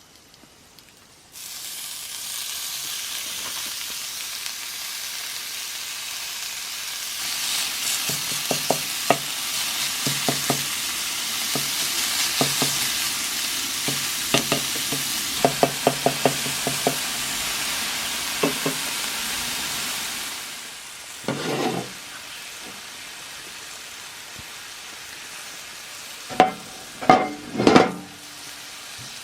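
Ground beef sizzling in a hot cast iron skillet. The sizzle starts suddenly about a second in, and a utensil repeatedly scrapes and taps the pan as the meat is stirred. The sizzle drops off after about twenty seconds, and a few knocks on the pan come near the end.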